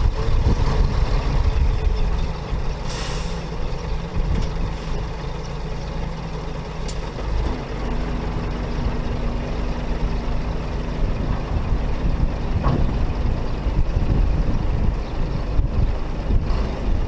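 Scania tipper truck's diesel engine running steadily, with a short air-brake hiss about three seconds in.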